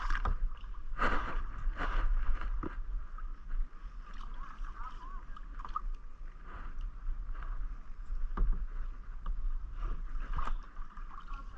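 Kayak paddle strokes splashing in the water, with a series of sharp splashes and knocks that cluster in the first few seconds and come back twice near the end.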